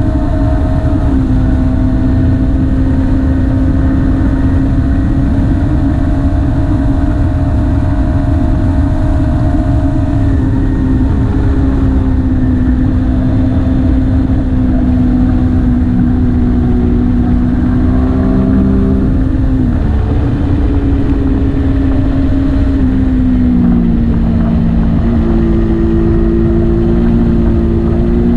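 Motorcycle engine running at a steady speed while riding, its pitch dropping and shifting a few times as the speed changes through the bends, under heavy wind rumble on the microphone.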